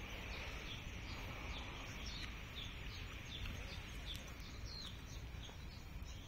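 Small birds chirping, short high downward-sliding chirps about two a second, over a steady low background rumble.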